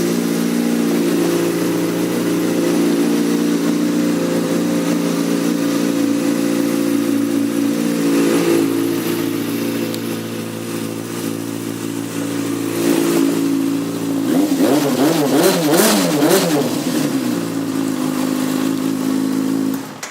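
2007 Yamaha FZ6's 600 cc inline-four, fitted with aftermarket twin Scorpion exhausts, idling steadily, then revved up and down in a few quick blips about two-thirds of the way through before settling back to idle.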